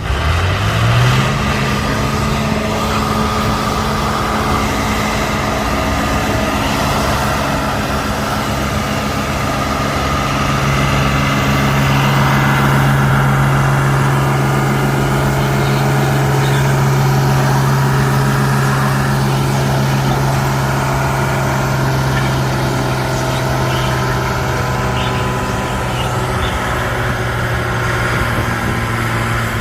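Tractor engine revving up in the first second, then running hard at a steady pitch as it pulls a weighted sled down the pulling track.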